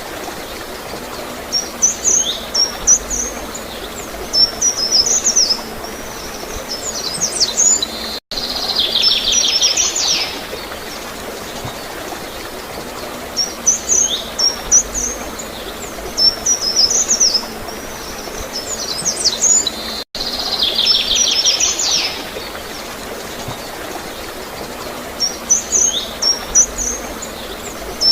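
Songbirds chirping in short, high bursts, with a buzzy trill, over a steady gurgle of flowing water. The same run of chirps and trill repeats about every twelve seconds, each time after a brief dropout: a looped recording.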